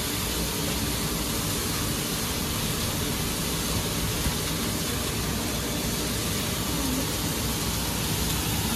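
Roughly chopped onions frying in oil in a kadai on a gas stove: a steady, even sizzle.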